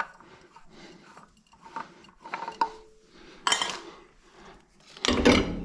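Metal parts and tools clinking and rattling as they are handled, with a sharp click about two and a half seconds in and a louder clatter with a thud near the end.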